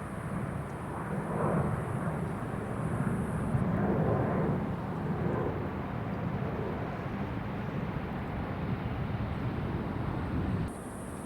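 Jet airliner engine noise: a broad, steady rumble that swells for a few seconds and then eases, dropping suddenly near the end.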